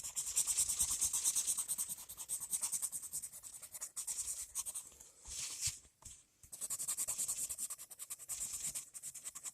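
Coloured pencil rubbing back and forth on paper in quick, even scratching strokes while shading an area, with a brief pause about five seconds in and another about six seconds in.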